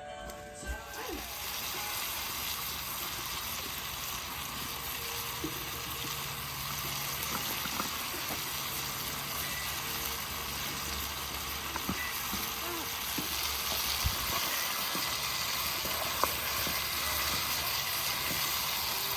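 Food frying in a pan on an outdoor burner, a steady sizzling hiss with a faint low hum under it.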